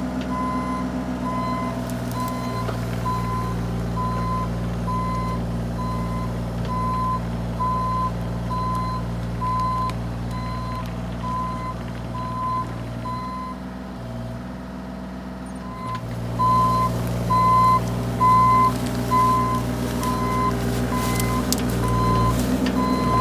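Diesel mini excavator running steadily, its travel alarm beeping about once a second. The beeping pauses briefly about two-thirds of the way through, then starts again louder.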